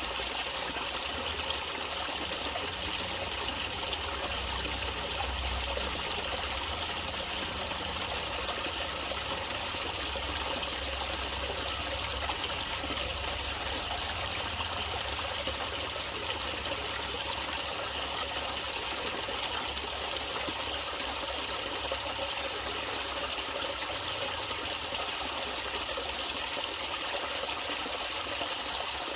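Natural water flowing and trickling steadily, a stream running over stones with a continuous splashing hiss.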